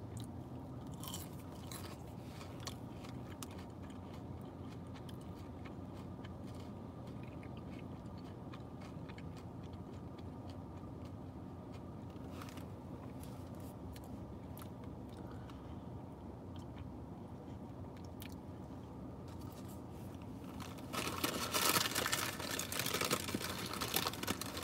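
A person chewing a cinnamon churro with small crunches and clicks over a steady low hum. Near the end comes a louder crackling, rustling stretch lasting a few seconds.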